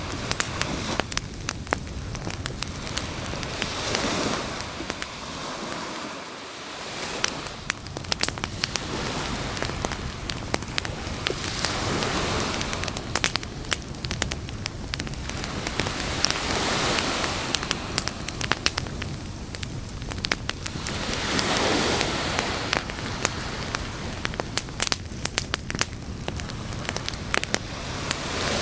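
Beach campfire crackling, with frequent sharp pops and snaps, over the wash of waves that swells and ebbs every few seconds.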